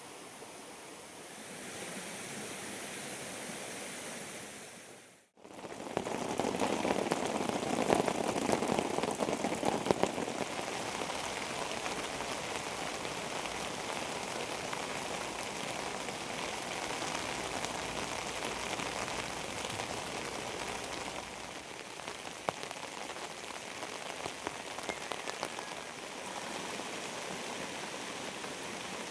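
Steady rain falling, a dense patter of many small drops, starting after a brief cut about five seconds in. Before the cut, a softer steady rushing noise.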